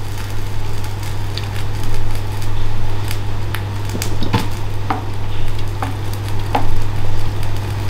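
Meat simmering in a pot of broth while a wooden spatula stirs it, with scattered light knocks of the spatula against the pot over a steady low hum.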